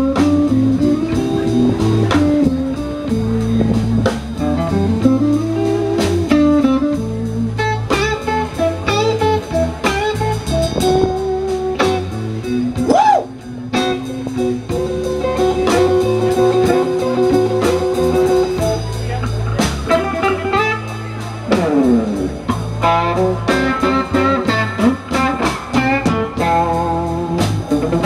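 Live blues band playing an instrumental passage led by guitar, with notes bent and sliding up and down over a steady bass part.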